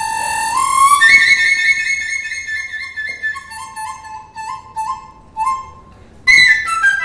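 Chinese bamboo flute (dizi) playing solo in a birdsong-imitating passage: a held high note slides up about half a second in, then a long string of quick, crisply tongued repeated notes that grow sparser and softer. After a brief gap, a loud high note near the end breaks into a fast run of falling notes.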